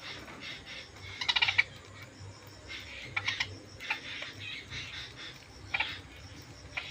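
Parrots chirping and squawking in short, rapid bursts while squabbling over food, with a few sharp clicks in between.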